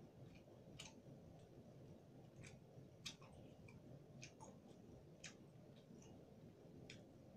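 Near silence with about half a dozen faint, irregularly spaced clicks, the mouth sounds of a person chewing food.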